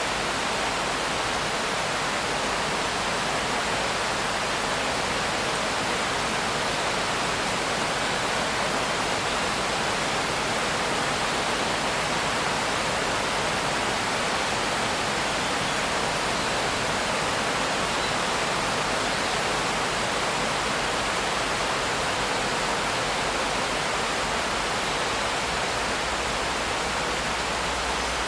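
Steady rain, an even hiss with no single drops or changes standing out.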